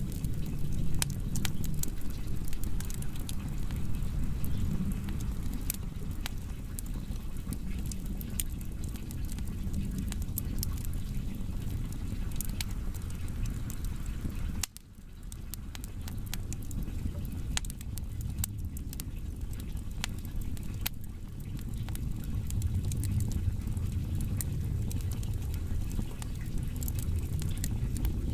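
Firewood burning: a steady low rumble of flames with many sharp crackles and pops from the logs. About halfway through, the sound drops out suddenly for a moment, then comes back.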